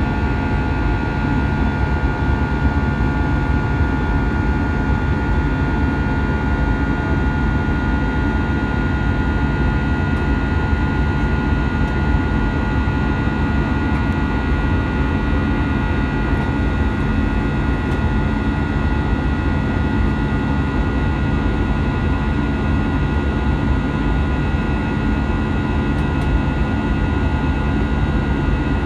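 Steady engine and airflow noise inside the cabin of an Airbus A320 airliner, with several steady whining tones over the noise.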